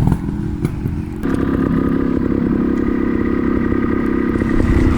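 Trials motorcycle engine running, picking up to steady higher revs about a second in.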